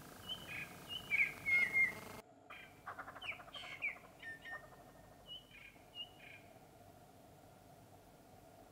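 Small birds chirping: short high calls in quick clusters for the first four seconds, with a brief rattling call about three seconds in, then only a few scattered notes.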